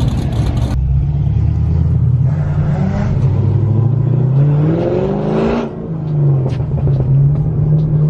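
A loud car engine revving hard: its pitch climbs for about three seconds, drops off sharply near the six-second mark, then settles back to a steadier, lower note.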